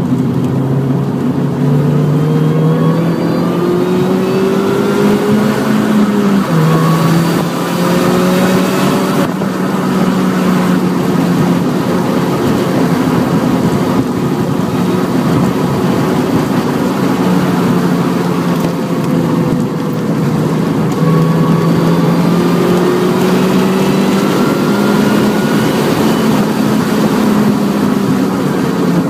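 Mini Cooper John Cooper Works's turbocharged four-cylinder engine heard from inside the cabin under hard acceleration on track. The engine note rises in pitch and drops sharply at an upshift about six seconds in. It climbs again, eases off through the middle, and pulls rising once more near the end, over steady tyre and road noise.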